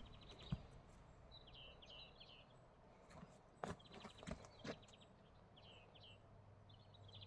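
Faint songbird singing, repeating a short phrase of a rapid trill and a few slurred notes every few seconds. A few soft knocks are heard about half a second in and between three and five seconds in.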